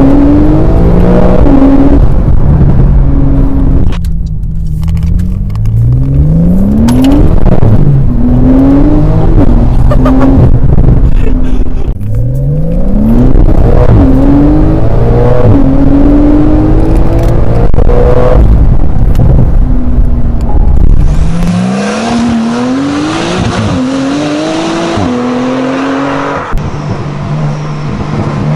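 Porsche 992 Carrera S twin-turbo flat-six through an IPE full exhaust with the particulate filter deleted, accelerating hard through the gears. The pitch climbs and drops back at each upshift, several times over.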